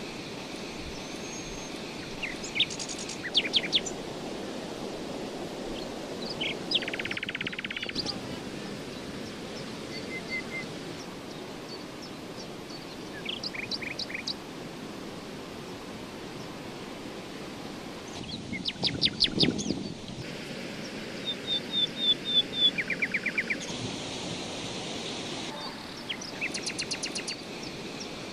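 Outdoor background noise with small birds chirping and trilling throughout, in short calls and several quick rattling trills, busiest a little past the middle.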